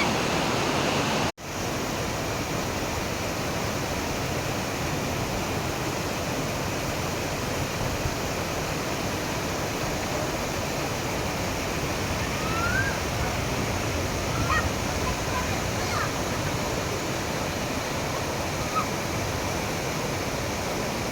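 Steady rush of fast-flowing river water, cut off for a split second about a second in, with a few faint short high-pitched calls in the second half.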